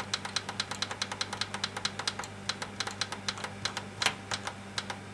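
Oven timer control clicking rapidly and evenly, about seven clicks a second, as the cooking time is stepped up toward 45 minutes, with one louder click about four seconds in. A steady low hum runs underneath.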